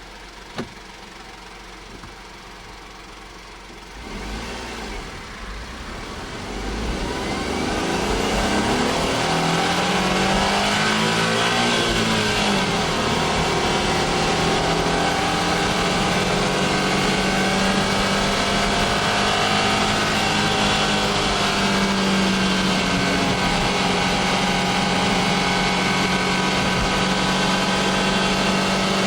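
Honda S660's small turbocharged three-cylinder engine, quiet at first, then growing louder from about four seconds in. Its pitch rises and falls briefly, and it then runs steadily and loudly.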